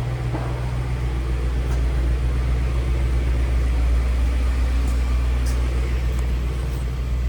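2005 Ford Thunderbird's 3.9-litre V8 engine running steadily, getting a little louder from about two seconds in.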